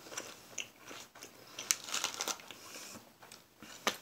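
Crunchy chewing of a raw iceberg-lettuce salad, close to the microphone, in uneven bites and crunches that are busiest in the middle. A sharp click comes near the end.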